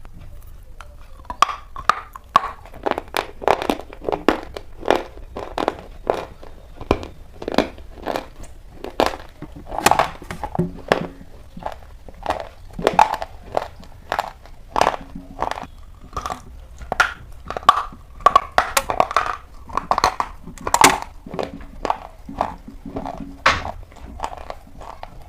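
Slate pencils being bitten and chewed: an irregular run of sharp, brittle crunches, about two or three a second, starting about a second and a half in.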